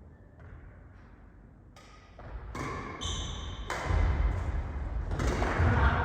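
Badminton rally in a hall: sharp racket hits on the shuttlecock, a brief shoe squeak on the court floor, growing louder and busier in the second half.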